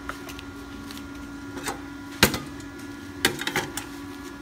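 Kenmax ARC200I inverter stick welder running idle, a smooth, quiet steady hum with a faint electrical whine. A sharp click about two seconds in and a few clicks and knocks a second later, from handling at the machine.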